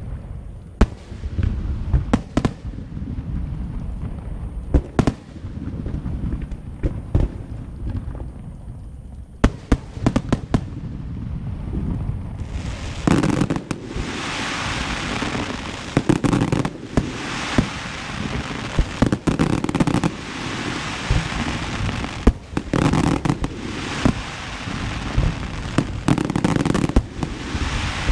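Fireworks going off: repeated sharp bangs over a low rumble. About halfway through, a dense crackling hiss joins in and swells and fades several times while the bangs keep coming.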